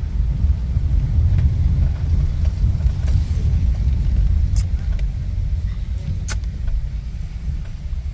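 A loud, steady low rumble with a few sharp clicks, one about halfway through and another a couple of seconds later.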